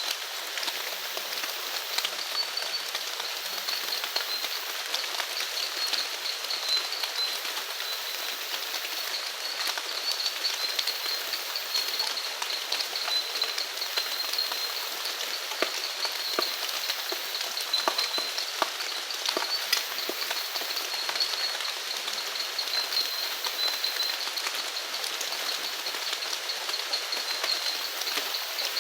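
Steady rain falling, with single drops ticking close by, over a continuous high, thin trill.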